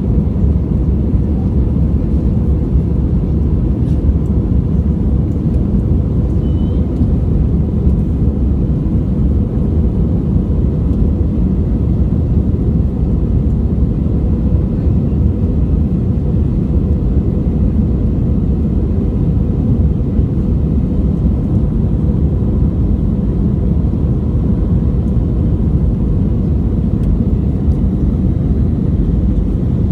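Airbus A320's CFM56 jet engines heard from inside the passenger cabin: a steady, deep roar of engine and air noise with a faint constant hum, unchanging throughout.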